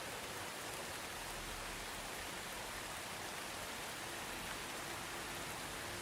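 Soft steady rain, an even hiss of falling rain with no distinct drops or thunder.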